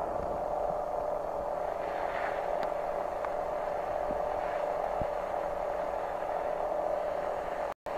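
Steady rushing noise of a skier's descent on snow, with scraping and faint clatter, over a constant hum. The sound cuts out twice briefly near the end.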